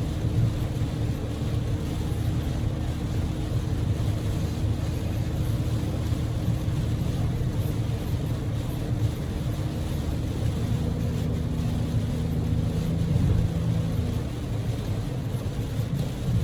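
Inside the cabin of a Daihatsu Move L150S on the move: the steady drone of its EF-VE 660 cc three-cylinder engine and tyres, with heavy typhoon rain and spray noise over it. The engine note shifts in pitch about two-thirds of the way through.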